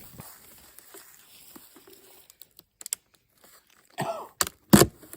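A person coughing, a few hard coughs close together near the end, from choking on smoke.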